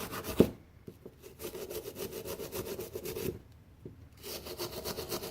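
Brush scrubbing a brass valve in rapid back-and-forth strokes, pausing briefly twice, with a sharp knock just under half a second in.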